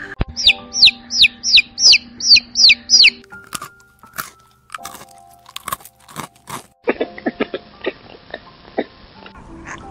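A rapid series of eight loud descending chirps, about three a second, followed by irregular crunching clicks, over soft background music.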